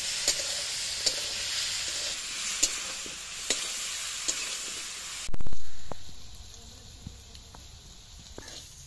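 Diced papaya and green chillies sizzling in hot oil in an iron kadai, a metal spatula scraping and tapping the pan about once a second. About five seconds in there is a sudden loud thump, and after it the sizzling is much fainter, with a few light ticks.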